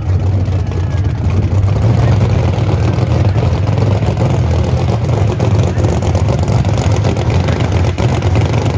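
A car engine running steadily, with no revving.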